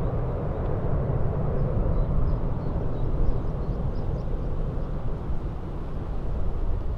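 Boeing C-17 Globemaster III's four turbofan engines giving a loud, deep, steady jet rumble that slowly fades.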